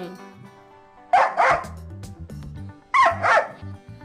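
Dog barking: two quick barks about a second in and two more near three seconds.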